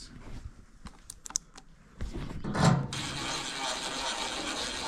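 A few light clicks as a screw and driver are handled, then, from about two seconds in, a 20-volt cordless drill-driver runs steadily for about three seconds, driving a screw into the washer's panel.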